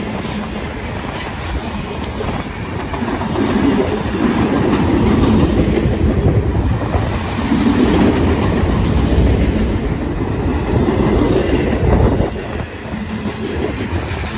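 Union Pacific freight cars (autoracks, then covered hoppers) rolling past: steel wheels clickety-clacking over the rail joints over a continuous low rumble. It swells louder in the middle and dips briefly near the end.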